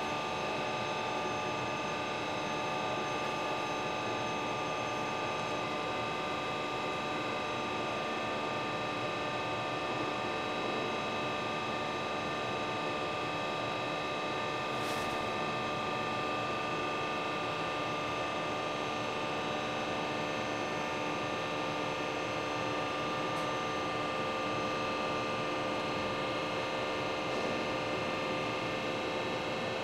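Böhringer NG200 CNC lathe running steadily, a constant machine hum made of many steady tones that does not change in pitch or level.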